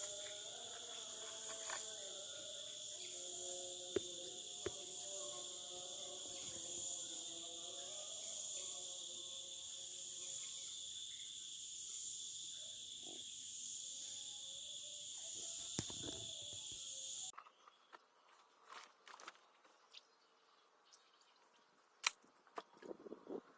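Steady drone of forest insects at a few high, even pitches, with faint lower wavering tones beneath. It cuts off suddenly about 17 seconds in, leaving scattered clicks and knocks.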